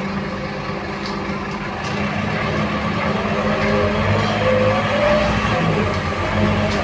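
Scania K230UB bus's diesel engine running, heard from inside the cabin, a steady low hum that grows louder about two seconds in.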